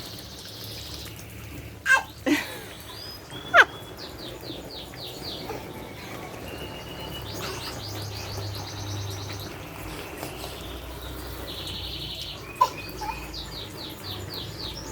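Birds calling: repeated quick series of high chirping notes, with a few loud calls that fall steeply in pitch about two and three and a half seconds in, and a sharp call near the end.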